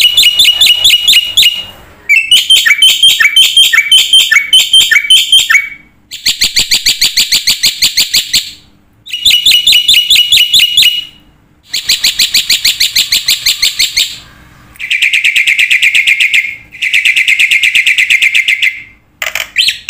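A bird singing loudly in phrases of rapid trilled notes, each phrase one to two seconds long, with short pauses between them.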